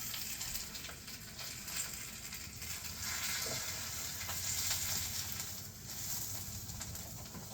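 A tortilla dipped in birria fat, frying in oil in a pan, with a steady sizzle and a few faint clicks.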